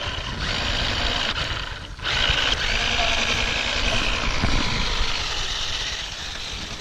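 Small motorized car run at full throttle, its wheels spinning on ice while it barely moves. Steady motor and wheel noise that dips briefly about two seconds in, then carries on.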